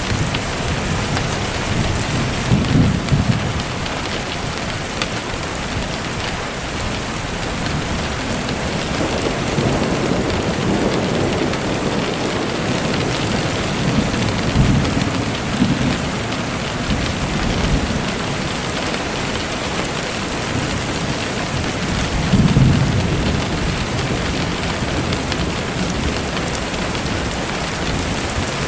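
Steady rain falling, with low rumbles of distant thunder swelling up four times, about 3, 10, 15 and 22 seconds in.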